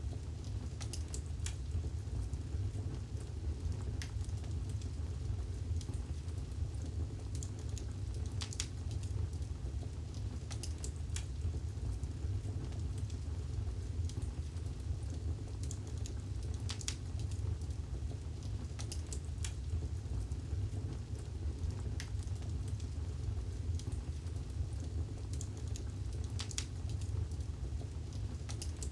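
Wood fire burning in a fireplace: a steady low rumble with irregular sharp crackles and pops, a few every couple of seconds.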